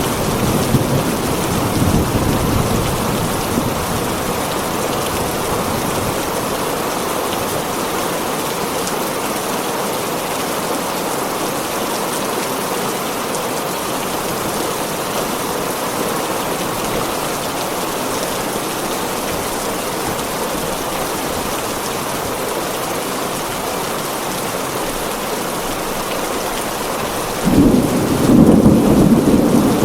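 Heavy rain drumming steadily on a tin roof, with a low thunder rumble fading away in the first few seconds and a louder rumble of thunder breaking in near the end.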